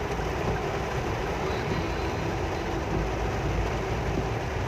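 A vehicle driving through heavy rain: a steady rush of rain and road noise over a low engine drone.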